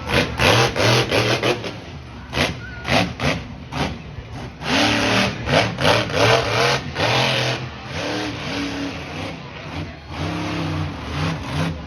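Monster truck engine revving hard in repeated throttle blasts, its pitch rising and falling with each surge.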